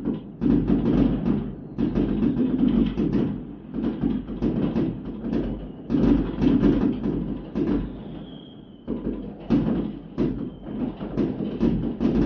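Fireworks going off in dense, overlapping bangs and crackles that come in waves, with a short high whistle about eight seconds in.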